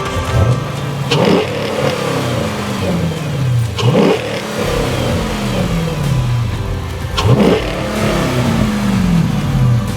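Car engine revved three times, each rev rising sharply and then falling away slowly as the throttle is released.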